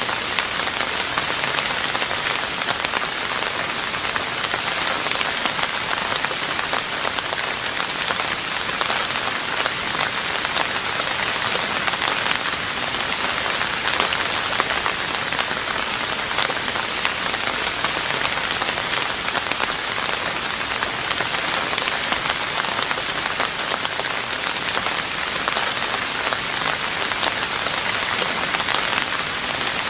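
Steady rain falling on a roof, an even hiss of dense drops with fine individual drop ticks throughout.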